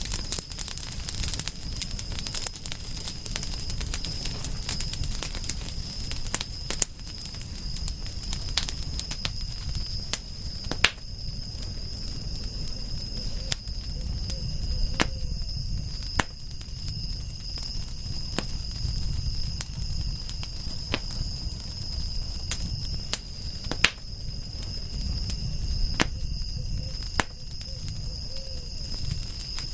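Campfire crackling: irregular sharp pops and snaps of burning wood over the steady low rumble of the flames, with a steady high-pitched tone running throughout.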